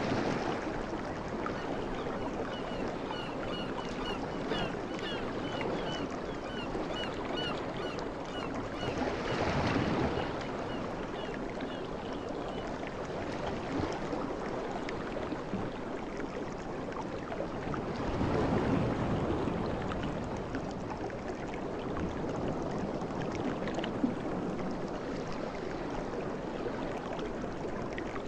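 Ocean waves washing in steadily, with two louder surges about ten and nineteen seconds in. A bird gives a quick series of short high chirps, about two a second, through the first half.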